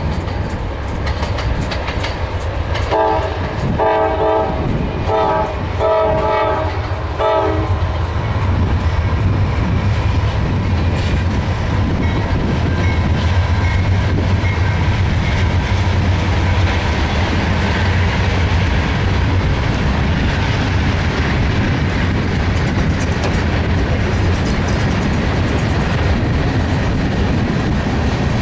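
Freight train passing: the locomotive's air horn sounds about five short blasts a few seconds in. Then the steady rumble and clickety-clack of freight cars rolling by.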